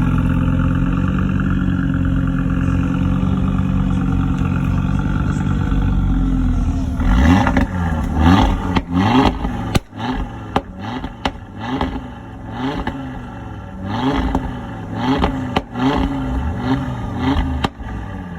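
A car engine idling steadily, then revved in a series of short blips from about seven seconds in, each rev rising and dropping back, with a few sharp cracks between the revs.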